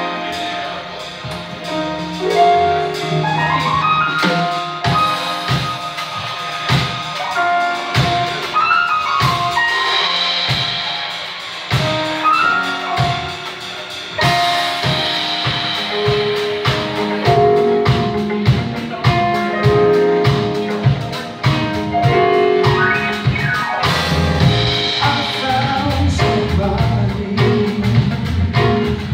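Live band playing an instrumental passage without vocals: melodic instrument lines over a drum kit, whose beat becomes steady and regular about halfway through.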